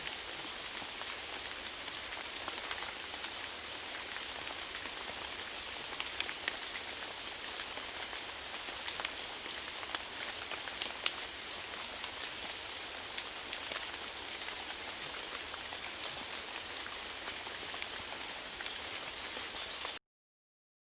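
Steady rainfall with sharp ticks of individual drops scattered through it. It cuts off suddenly about a second before the end.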